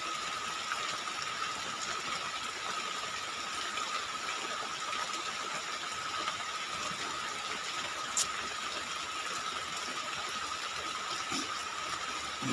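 Heavy rain falling, a steady hiss, with a thin steady high tone running under it. A single sharp click about eight seconds in.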